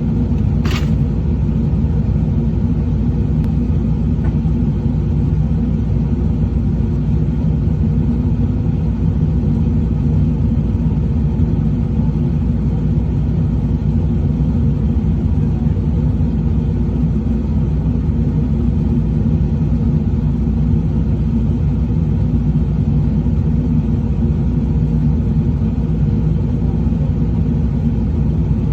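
Truck engine running at a steady speed, with a brief sharp click a little under a second in.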